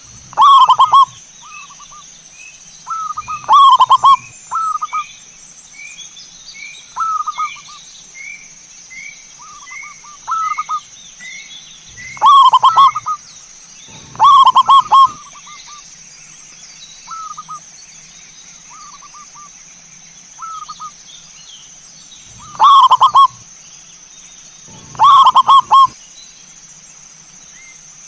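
Zebra doves (perkutut) cooing in short repeated phrases. About six very loud phrases stand out, with quieter coos in between. A thinner series of short rising chirps runs higher up for several seconds near the start, over a steady high whine.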